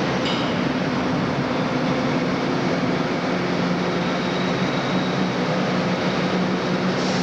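Subway work train running, a steady rumble with a low, even hum.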